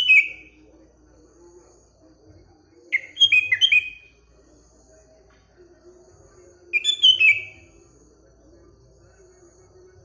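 Sooty-headed bulbul (kutilang) singing short phrases of a few quick whistled notes, three times about three and a half seconds apart, over a faint steady background hum.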